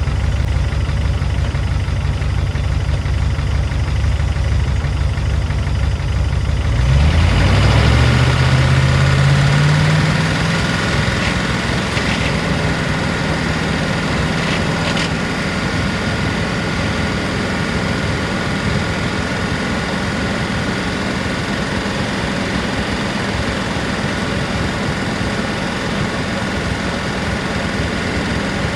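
P38 Range Rover engine idling with a ticking from the lifters; about seven seconds in its speed rises over a few seconds and then holds steady at the higher speed. The ticking is the sign of a sticking valve or lifter, which the owner puts down to the engine sitting over the winter.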